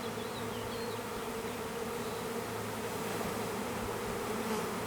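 A large honeybee swarm buzzing: a steady, even hum of many bees in flight.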